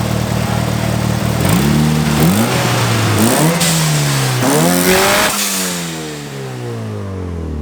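Car engine idling, then revved up in three rising pulls with sharp drops between them, then the revs falling steadily back down.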